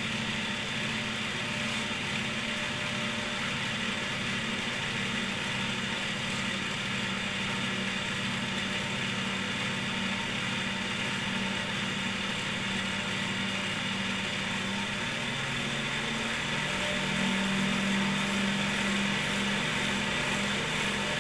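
Cotton candy machine running: its DC motor spins the brass spinner head with a steady hum and whir. About fifteen seconds in, the motor's tone shifts and gets a little louder.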